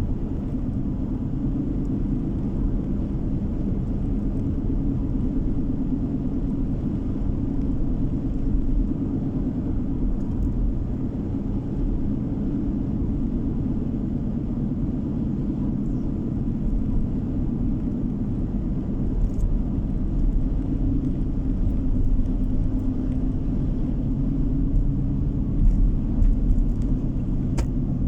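A car driving along the road, its tyre and engine noise a steady low rumble.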